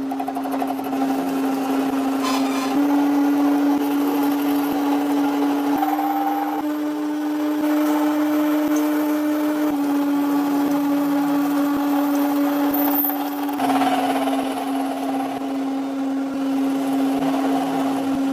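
Workshop machine's electric motor running at a steady speed, a continuous hum whose pitch steps slightly up or down a few times.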